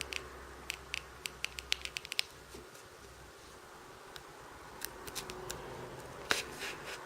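Small sharp clicks and taps of hands handling a smartphone with its back cover off: a quick run of about a dozen clicks in the first two seconds, a few scattered ones later, and a short cluster near the end.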